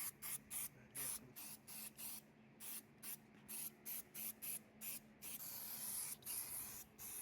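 Aerosol spray-paint can hissing faintly in short, quick bursts, about three a second, then in a few longer sprays near the end as a coat of paint goes onto engine parts.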